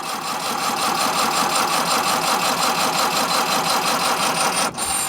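A 1924 Austin Seven's electric starter motor cranking its small four-cylinder side-valve engine in a steady rhythmic churn. The cold, choked engine turns over but does not fire.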